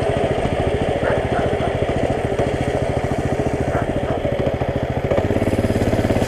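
Coleman CT200 mini bike's small single-cylinder engine running steadily at low speed with an even firing beat; its note shifts about five seconds in.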